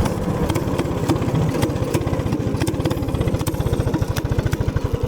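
Minibike's small gas engine running, its firing beats growing slower and more distinct as it winds down, with scattered sharp rattling clicks. The bike is vibrating hard.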